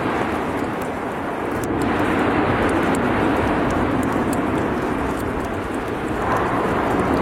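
Steady, loud roaring rumble of an erupting volcano, swelling a little about six seconds in.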